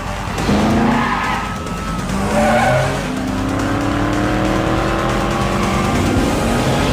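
Car engine revving hard with its pitch climbing steadily, tyres squealing and skidding in short bursts, in a chase-scene sound mix with film score underneath.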